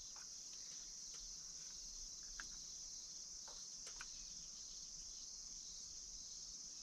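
Insects, likely crickets, chirring steadily in one continuous high-pitched band, with a few faint ticks about two and a half and four seconds in.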